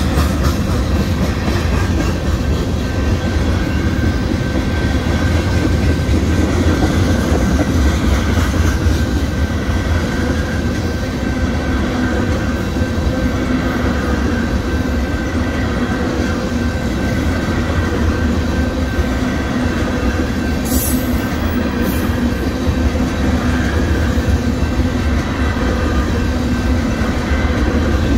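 Union Pacific mixed freight train's tank cars rolling steadily past, steel wheels rumbling on the rails.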